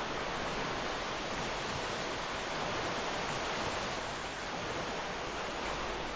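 Ocean surf washing onto a sandy beach: a steady, continuous rush of breaking waves, swelling slightly a little after the middle.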